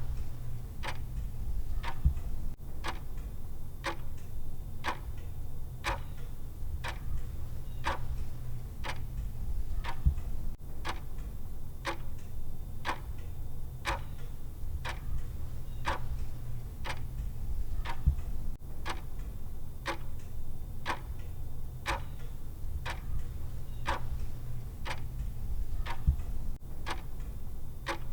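Clock tick sound effect of a countdown timer: steady, evenly spaced ticks over a low steady hum.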